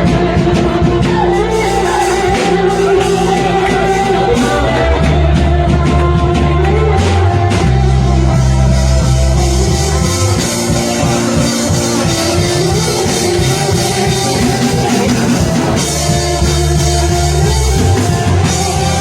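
Worship music: singing voices over a band with held bass notes and a drum kit.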